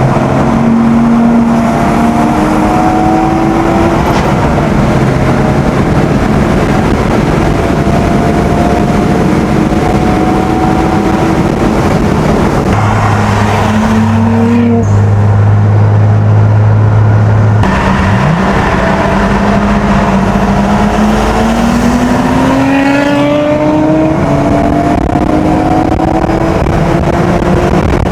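Nissan Skyline's straight-six engine under way, its pitch climbing repeatedly and dropping back at each gear change, with a steady low drone for a few seconds midway that cuts off suddenly.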